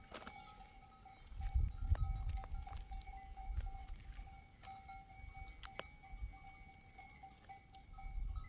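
Bells on a herd of sheep and goats clanking and ringing as the animals move, with ringing tones that hold between strikes. A low rumble rises about one and a half seconds in.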